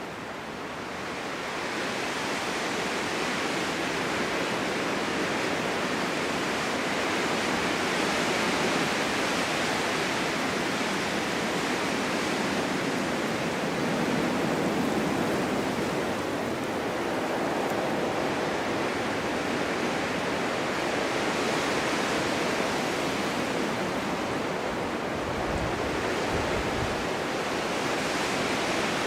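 Strong wind blowing steadily in a snowstorm, a dense rushing that swells and eases slowly, rising over the first couple of seconds.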